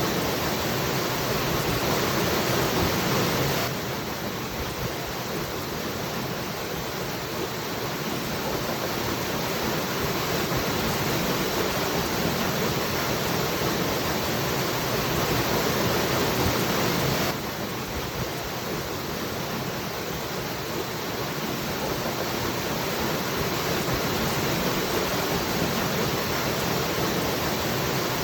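Waterfall rushing steadily. The sound suddenly drops a little in level about four seconds in and again about seventeen seconds in.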